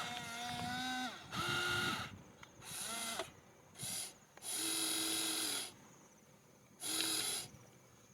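Small electric gear motors of a radio-controlled model tractor whining in six short bursts, each starting and stopping abruptly at a steady pitch as the controls are worked.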